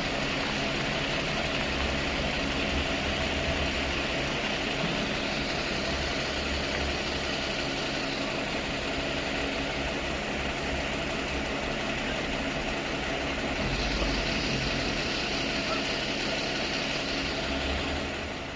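Heavy truck diesel engine running steadily, a little louder for a few seconds in the later part.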